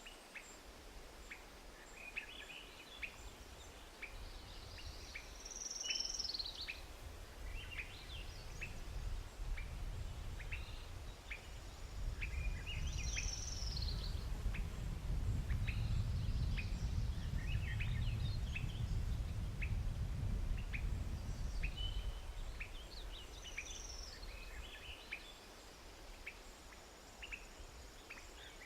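Birds calling in the wild: short high chirps repeating throughout, with a louder arching call every several seconds. A low rumble swells through the middle and fades again.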